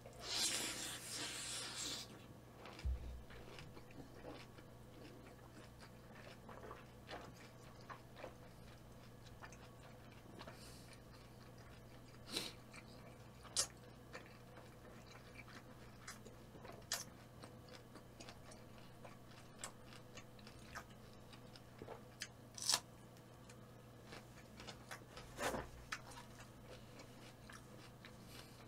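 A person biting into and chewing food, crunchy at first. Then quiet chewing with a few short, sharp clicks scattered through it.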